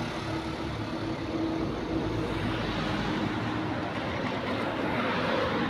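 Street traffic: a vehicle engine running amid steady road noise, with a faint steady hum.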